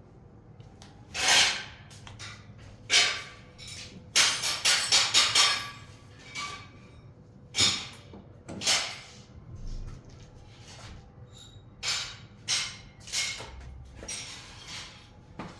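Irregular scraping and knocking strokes of hand work on tile and cement, each under half a second, with a quick run of five or six strokes about four seconds in.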